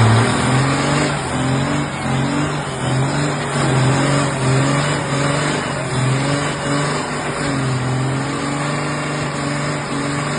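Truck engine held at high revs during a burnout, its pitch wavering up and down over and over, over a dense rushing noise.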